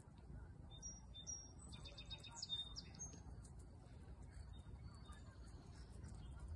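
Faint high bird chirps: a quick burst of short whistled notes and chirps about one to three seconds in, then a few fainter notes, over a low steady rumble.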